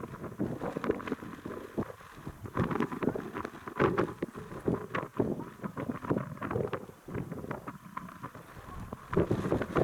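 Wind buffeting the microphone in irregular gusts, a rough rumbling that swells and drops every second or so.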